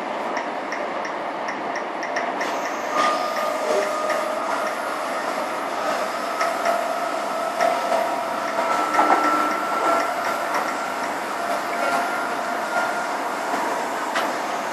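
Riding inside a Perth suburban electric train carriage: a steady running rumble with a whine joining in about three seconds in and rising slightly in pitch.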